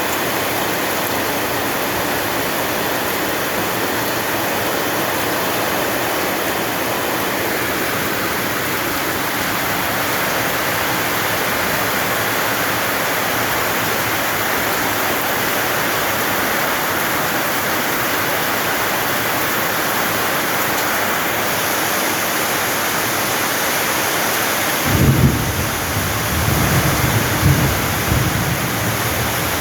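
Heavy rain falling steadily, with a roll of thunder rumbling for a few seconds near the end.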